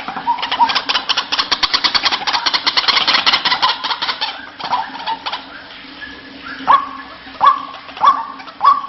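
White-breasted waterhen calling. It starts with a fast chattering run of about ten pulses a second, which gives way about halfway through to loud, sharp, upward-flicking notes repeated roughly every 0.7 s.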